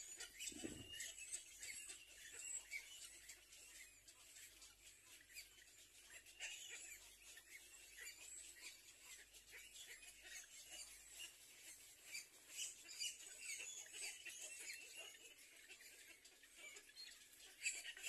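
Near silence with faint, scattered high-pitched chirps and ticks from birds, and one brief low thud just under a second in.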